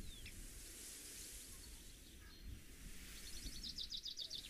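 Faint outdoor ambience with a small bird singing: a quick run of high, repeated chirps in the last second or so.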